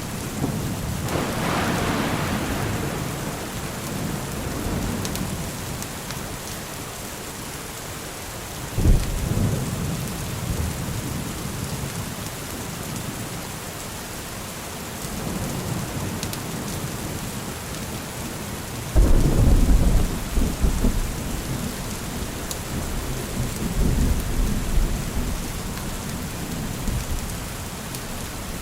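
Steady rain with thunder. A rolling rumble swells soon after the start, a sharper clap comes about a third of the way in, and the loudest, longest peal rumbles on from about two-thirds of the way through.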